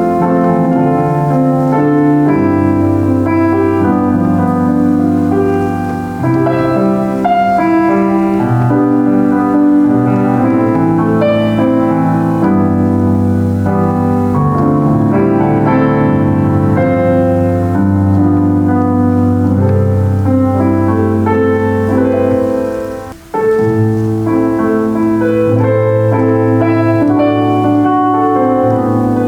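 Solo acoustic piano playing full, sustained chords with a moving melody above. It stops for a short moment about three-quarters of the way through, then carries on.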